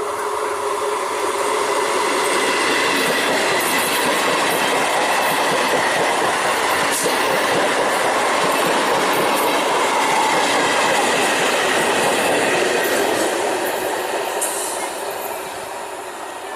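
Six-coach electric multiple unit (EMU) local train running by on the track, its wheels clattering over the rail joints. The sound grows to a peak about ten seconds in and then fades as the train moves away.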